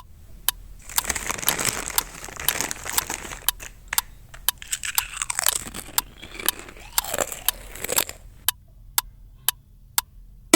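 Potato chips being crunched and chewed, a dense crisp crackling. Through it, sharp ticks about twice a second.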